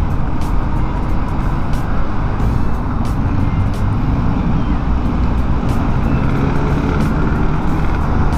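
Motorcycle riding in traffic heard through a lavalier microphone wrapped in a disposable glove: a steady low rumble of engine, road and wind noise.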